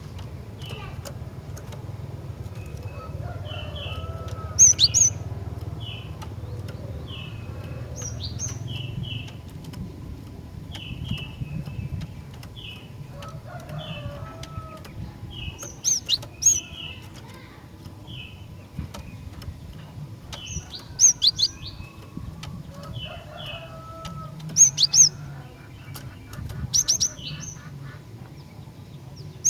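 Female cinereous tit (glatik batu) calling: short chirps repeated in quick twos and threes, with louder, higher, sharp calls breaking in every few seconds over a steady low hum.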